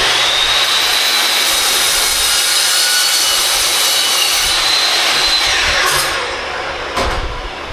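Cold saw cutting through aluminum square tube: the blade motor runs with a steady high whine under loud cutting noise, then winds down about five and a half seconds in, followed by a sharp clack.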